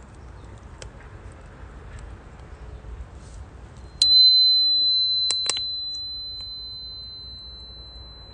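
Wood fire crackling softly with scattered pops. About halfway through, a small metal chime is struck once: a single high, pure ringing tone that fades slowly over the following seconds, with two light clicks just after the strike.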